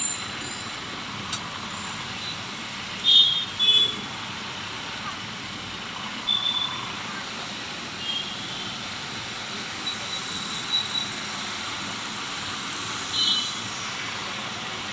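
Steady road traffic noise, with several short high-pitched horn toots.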